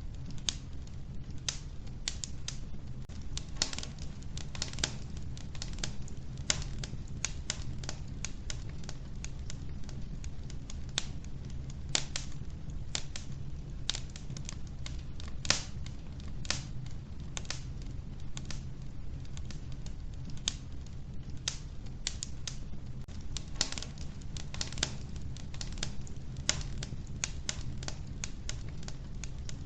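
Logs burning in an old wood-burning stove, crackling with irregular sharp snaps and pops, several a second, over a steady low hum.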